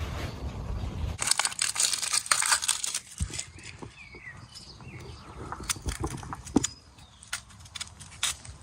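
Crinkling and crunching for about two seconds, starting about a second in, followed by scattered sharp clicks and taps. A low rumble comes before it.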